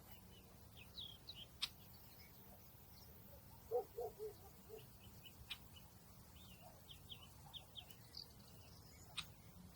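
Faint outdoor birdsong: small birds giving short high chirps scattered throughout, a brief run of lower notes about four seconds in, and a few sharp clicks.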